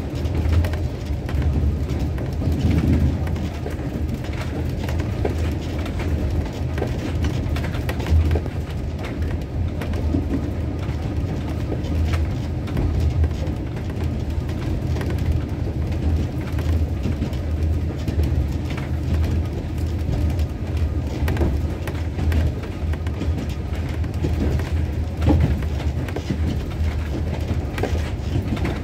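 Passenger train running along the track, heard from on board: a steady low rumble with scattered clicks from the wheels and rails.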